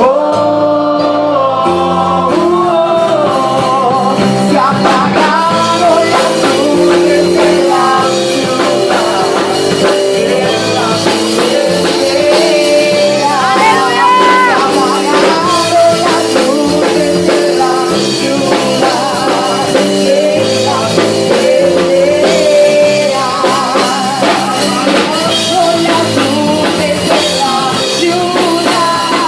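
A Christian worship song sung over a full band, with drums and a steady beat.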